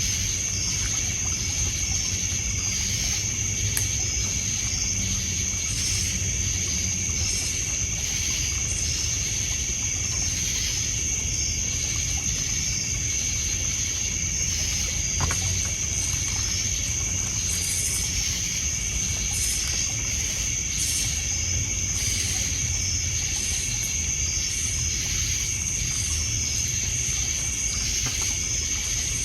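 Crickets and other insects trilling in a steady night chorus, one constant high tone with faster pulsed chirps over it, and water lapping low underneath. One sharp crackle from the campfire about halfway through.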